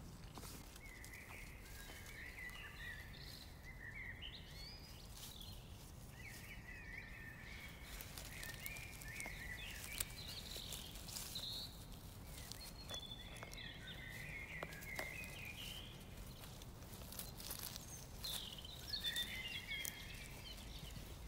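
Small birds twittering faintly in short repeated phrases, with scattered crackles and rustling from dry leaves and heather being handled on the forest floor.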